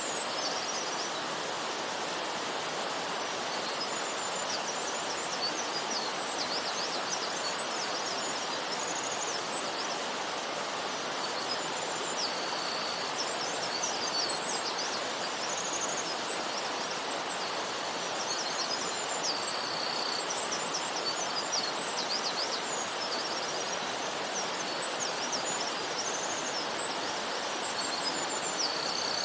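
Eurasian wren singing: long, fast, high trilling song phrases repeated many times, over a steady rush of running water.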